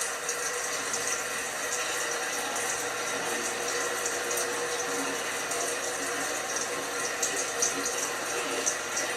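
LG washing machine running with water flowing through it: a steady rush of water with a faint even hum underneath.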